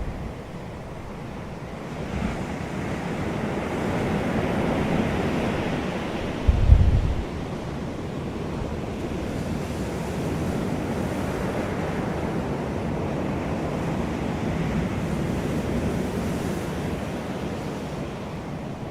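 Wind blowing in slow swells. A gust buffets the microphone in a short, loud low rumble about seven seconds in.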